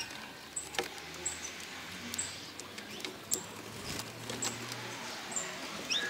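Short high-pitched bird chirps repeating about once a second, with a few sharp clicks between them.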